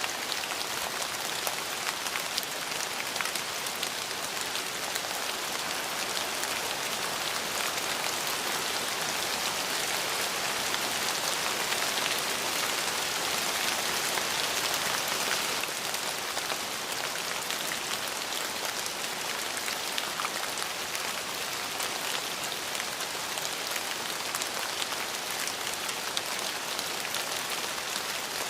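Steady rain falling on a surface, an even hiss dotted with fine drop ticks, swelling slightly around the middle.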